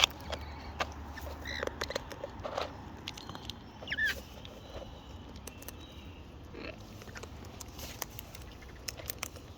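Wild parrots feeding at close range: scattered small clicks and taps of beaks on food and the feed bucket, with a couple of brief chirps, one about a second and a half in and one at about four seconds.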